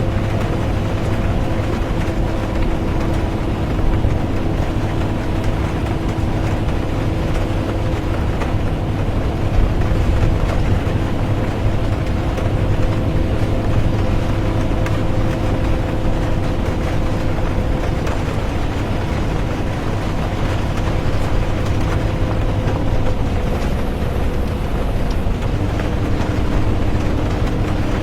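Bus interior while driving: a steady low engine and road drone with faint whining tones that shift slightly in pitch, and rain ticking and pattering on the bus.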